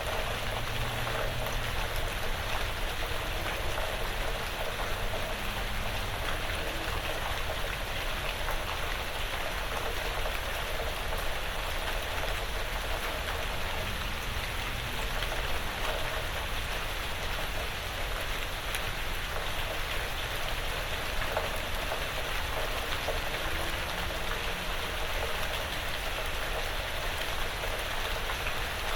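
Gentle, steady rain falling on a porch roof and the surrounding woods, an even hiss dotted with the patter of individual drops.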